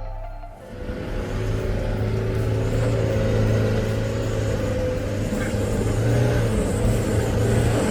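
Motor vehicle engine and road noise from dashcam footage, a steady low hum under rushing noise, starting as background music stops about half a second in.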